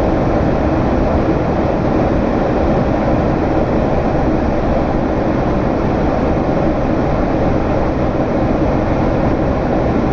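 Steady cabin noise of a Boeing 767 in flight: the drone of its GE CF6 turbofan engines and the rush of air, heard from inside the cabin.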